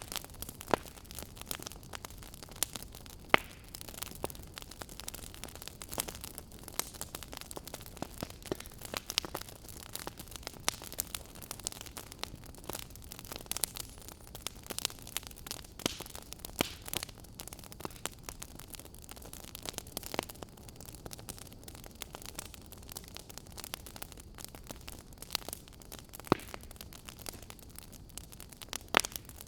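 Wood fire crackling in a fireplace: irregular sharp pops and snaps, a few louder ones, over a steady low hiss.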